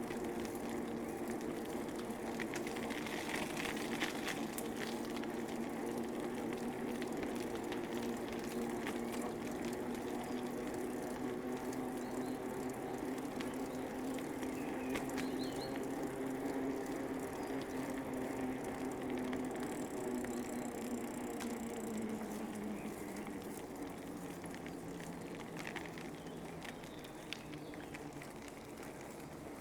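Bicycle rolling along a park path: tyre noise with a steady hum that dips slightly in pitch and eases off over the last several seconds, with scattered light clicks and crackles.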